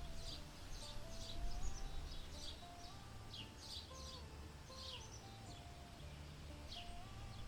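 Birds chirping: many short, high, falling chirps, several a second, over a low rumbling background, with faint held tones stepping slowly up and down in pitch.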